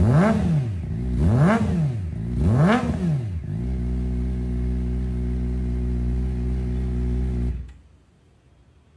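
Superbike engine and exhaust revved in three quick blips about a second apart, then settling to a steady idle. The sound stops after about seven and a half seconds, leaving near silence.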